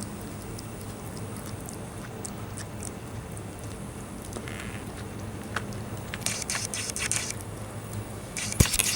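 Argentine black and white tegu eating egg: scattered sharp clicks and crunchy biting, with two louder bursts of crisp crunching in the second half and one strong click near the end, over a steady low hum.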